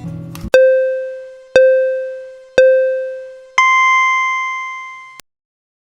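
Electronic countdown beeps: three short, lower beeps about a second apart, then one longer beep an octave higher that cuts off suddenly, the pattern of a race-start countdown signal.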